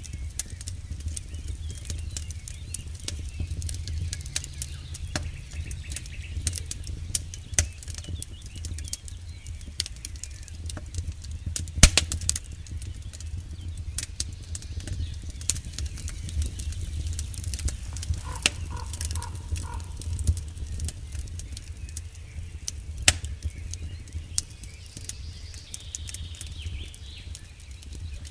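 Campfire burning, the wood crackling with irregular sharp pops over a steady low rumble of the flames; the loudest pop comes about twelve seconds in.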